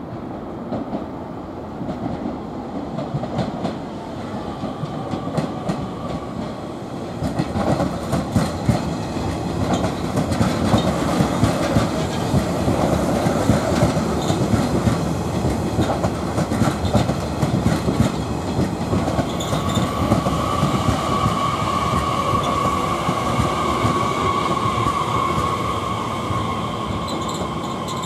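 Nishitetsu 3000 series six-car electric train pulling into a station. Its wheels clatter over the rail joints and the rumble grows as the cars run past. From about two-thirds of the way in, a steady squeal joins as it slows.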